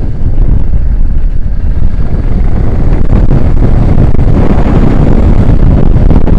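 Heavy wind buffeting on the microphone of a motorcycle rider on the move, with the motorcycle's engine and road noise underneath as a loud, steady rumble that brightens a little after about four seconds.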